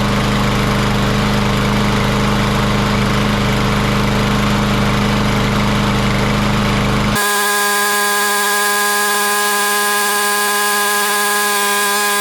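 Briggs & Stratton engine on a Troy-Bilt TB230 push mower running steadily, started on fuel mix poured into the spark plug hole. About seven seconds in, the sound changes abruptly: the low hum drops away, leaving a set of steady higher-pitched tones for about five seconds.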